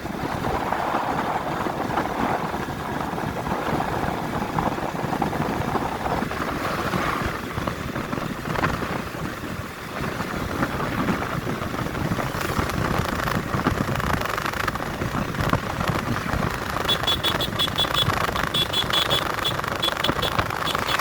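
Road vehicle travelling, with a steady engine and road rumble. Near the end comes a run of rapid, high-pitched beeps in short bursts.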